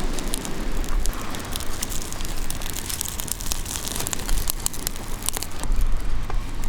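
Campfire newly lit with birch bark, crackling with many irregular sharp pops.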